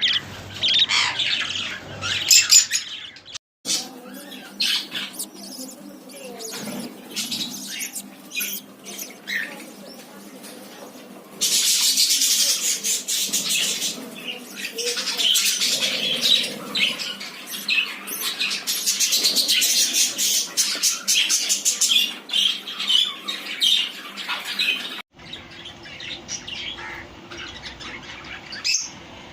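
A flock of pet budgies and cockatiels chattering, chirping and squawking without pause, louder in two stretches, with the sound breaking off abruptly twice.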